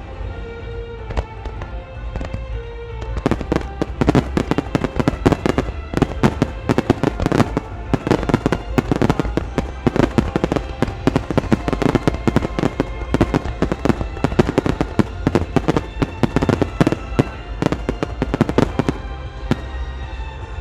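Fireworks display going off in a dense run of rapid pops and bursts, starting about three seconds in and thinning out near the end, over music with sustained tones.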